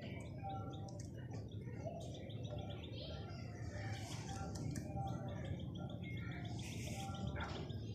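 Pet birds chirping and twittering continuously, with a fast trill running through and harsher squawks about four and seven seconds in, over a low steady hum.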